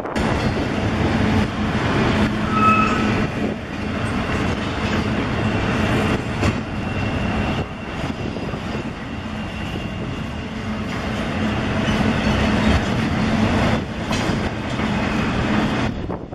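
Double-stack intermodal well cars rolling past on the main line: a steady rumble and clatter of steel wheels on rail. A short high-pitched tone sounds about three seconds in.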